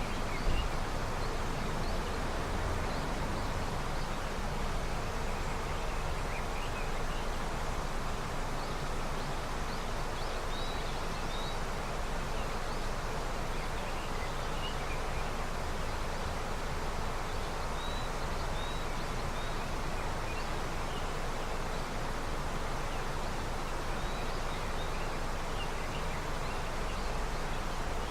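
River running steadily, swollen with early snowmelt, with short high bird chirps here and there over it.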